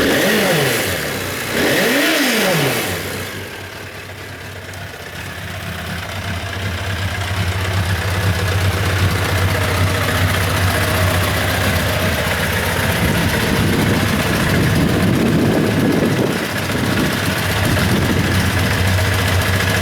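1985 Suzuki GSX-R750's oil-cooled inline-four engine blipped twice on the throttle in the first few seconds, then idling steadily.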